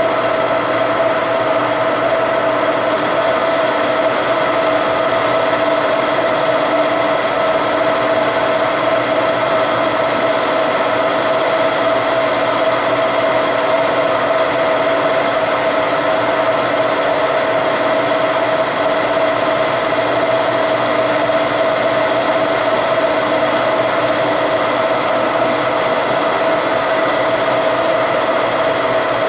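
A metalworking machine tool running steadily, its motor and drive giving a constant whine with several higher tones over a mechanical hum.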